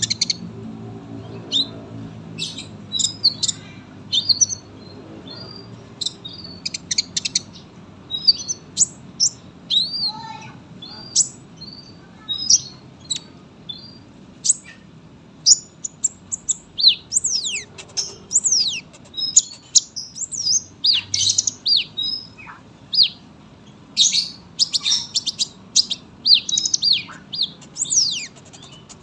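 Kolibri ninja sunbird singing a long, rapid song of high chirps, trills and quick sliding whistles, with barely a pause.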